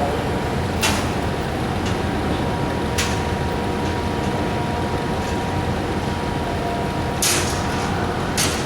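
Steady heavy-vehicle engine noise with a faint steady whine, broken by several short hisses, the longest about seven seconds in.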